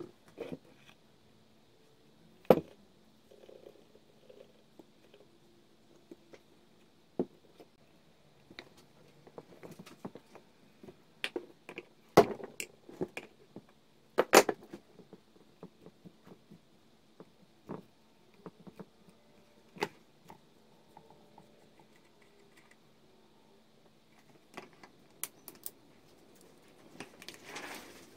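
Scattered clinks and knocks of metal tools and parts being handled at a workbench, a few sharp loud ones among many light ones.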